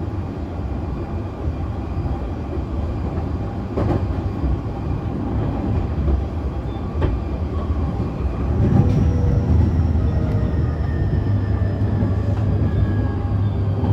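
Running sound of a JR East E531 series EMU with Hitachi IGBT-VVVF traction inverters: a steady rumble of motors and wheels with a few rail-joint clicks. From about halfway through, the inverter's thin whine slides steadily downward in pitch as the train brakes for its next station.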